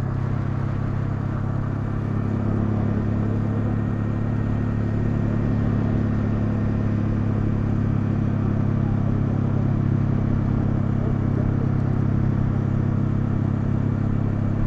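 Honda CL250 motorcycle engine running at a steady cruise, its note rising slightly about two seconds in and then holding steady.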